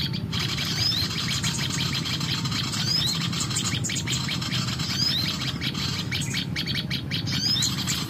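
Small songbirds chirping: a short, high call with a rising hook repeats about every two seconds over quick, busy twittering.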